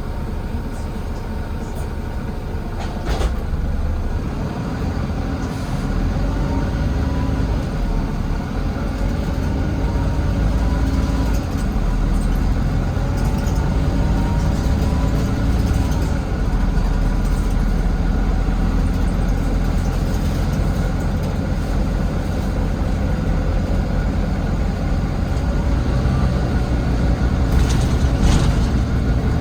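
Volvo B9TL double-decker bus on the move, heard from the back seat: its Volvo D9B engine drones steadily, with a whine rising and falling through the middle. There is a sharp knock about three seconds in and a short hiss near the end. The uploader hears the engine making weird noises on this batch and can't tell whether they are a sign of wear or of recent mechanical work.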